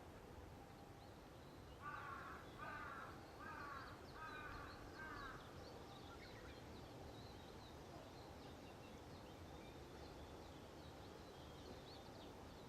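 A crow cawing about five times in quick succession a couple of seconds in, over faint high twittering of small birds.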